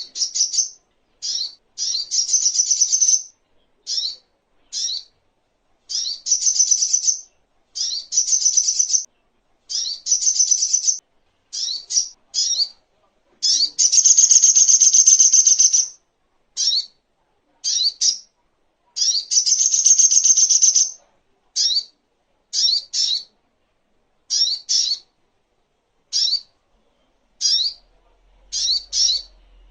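Little spiderhunter (sogok ontong) singing: high-pitched repeated short, sharp double notes, broken by longer rapid trills of a second or two, one longer trill about halfway through.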